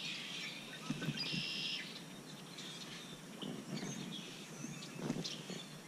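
Birds chirping faintly, a string of short high calls, with a few soft low knocks underneath.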